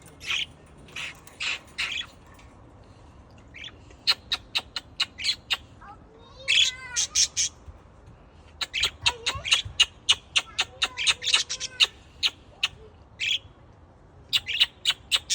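Birds calling in quick runs of short, sharp, high chirps and squawks, several a second, broken by brief lulls.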